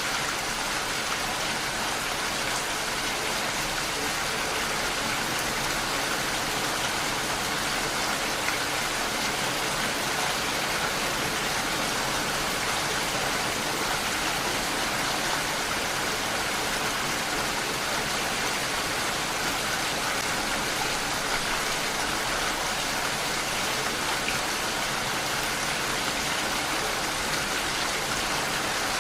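Steady rainfall, an even hiss of rain on surfaces with no change in intensity.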